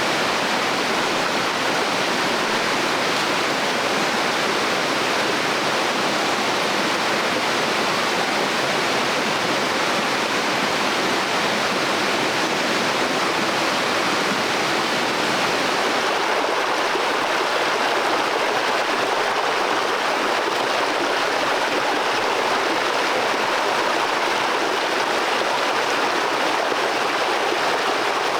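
Stream water rushing steadily over rocks, a dense, even flow; the sound shifts slightly past the halfway point.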